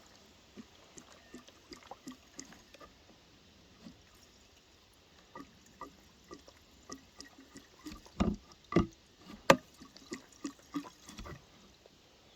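Two-stroke gas-oil mix being poured into the fuel tank of a Poulan 306A chainsaw, with faint liquid filling and scattered small clicks. A few louder knocks come about eight to nine and a half seconds in.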